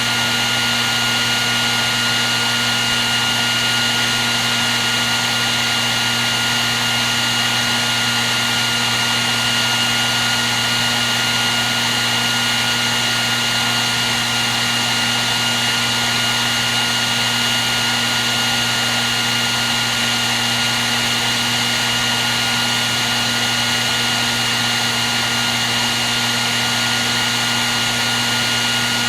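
Hair dryer running steadily: a continuous blowing hiss with a low motor hum and a thin high whine that stays at one pitch.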